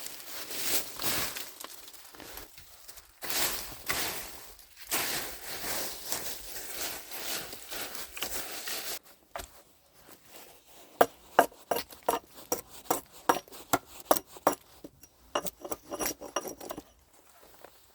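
Rustling and crunching of handled material for the first half, then after a pause a quick run of sharp knocks and clinks, about two or three a second, until shortly before the end.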